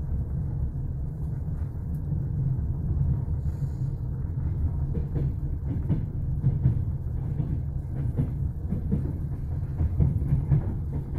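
Passenger train carriage running along the track, heard from inside: a steady low rumble, with scattered short clicks and knocks from about five seconds in.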